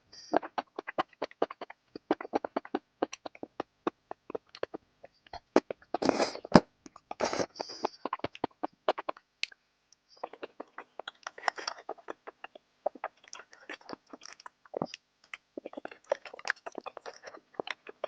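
Close-miked eating sounds: a rapid run of wet smacks, bites and crunches from chewing sticky food, with louder bites about six and seven and a half seconds in and a brief pause near ten seconds.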